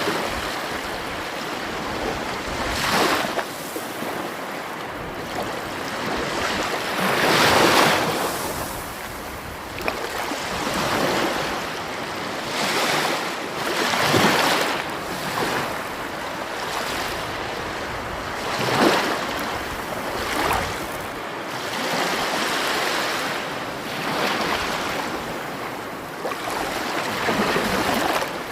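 Sea waves breaking and washing on the shore, the rushing swelling and fading every few seconds.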